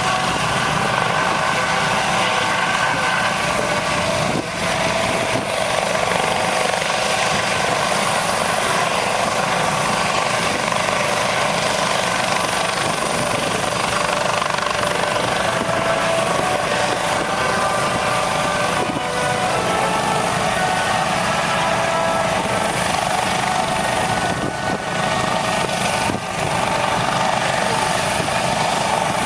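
Aircraft engine running loud and steady: a continuous rush with whining tones that drift up and down in pitch.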